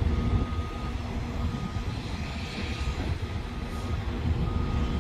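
Freight train of hopper cars being switched: a low rumble with the steady hum of a diesel engine under it. A faint high tone comes and goes several times.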